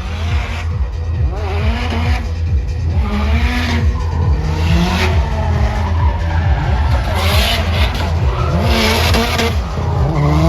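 Drift cars sliding on the track: engines revving up and down, with repeated bursts of tyre screech every second or two.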